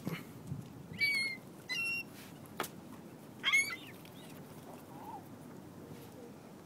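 Birds giving three short, high calls, about one, two and three and a half seconds in, with a sharp click between the second and third.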